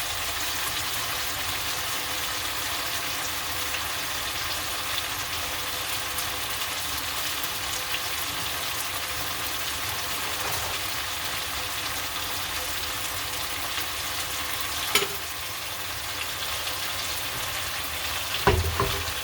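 Chicken thighs sizzling steadily as they brown in hot oil with garlic and onion in a pan. Two sharp knocks, one about fifteen seconds in and one near the end.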